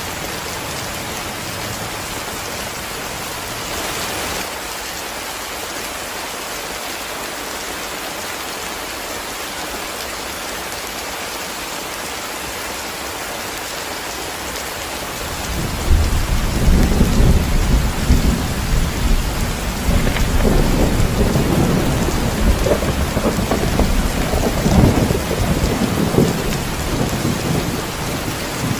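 Steady heavy rain falling. A little past halfway a low, rolling rumble of thunder sets in, louder than the rain, and keeps going.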